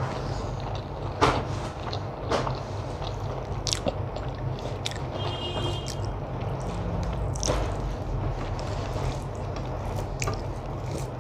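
Close chewing and mouth sounds of someone eating rice and curry by hand, with scattered sharp clicks over a steady low hum.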